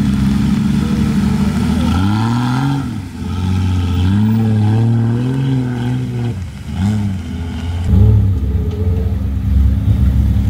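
Off-road 4x4 engine running and being revved up and down several times, its pitch rising and falling in short swells over a steadier engine underneath.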